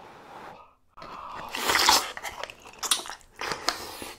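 Close-miked eating sounds: a person chewing a mouthful of malatang with Chinese glass noodles, with wet mouth noises and smacks, loudest a little under two seconds in.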